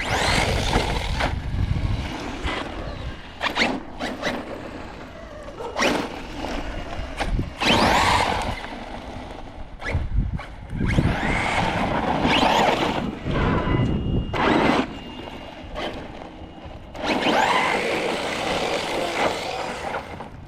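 Team Corally Kagama 6S electric RC car driven in repeated bursts of throttle: the brushless motor's whine and the tyre noise surge about five times, with quieter stretches between.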